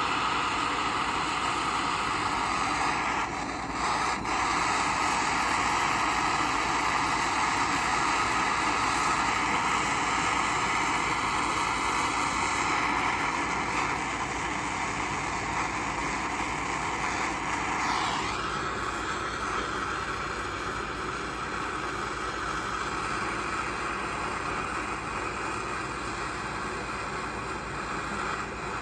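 Gas torch flame burning steadily, preheating the casting flasks and tools to drive off moisture before molten silver is poured. The flame's sound shifts a little about 18 seconds in.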